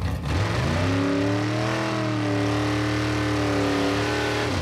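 1956 Chevy 210 drag car's V8 accelerating hard from the launch: the engine pitch climbs steeply over the first second or so, holds high and nearly steady while it pulls, then drops briefly near the end.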